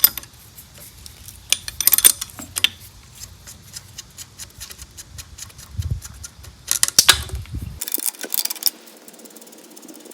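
Hand tools working on the carburetor mounting of a Type 4 VW engine: runs of quick metal clicks and clinks, some in fast repeated series, with pauses between.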